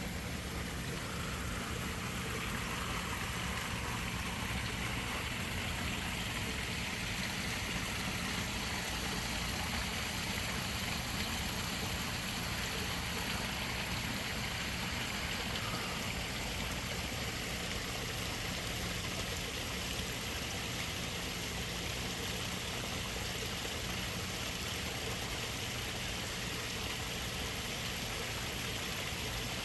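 Steady rush of flowing water from a garden koi pond, with a faint low steady hum underneath.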